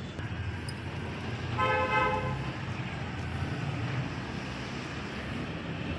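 A vehicle horn sounds once, a short steady honk lasting under a second about a second and a half in, over a steady low hum of road traffic.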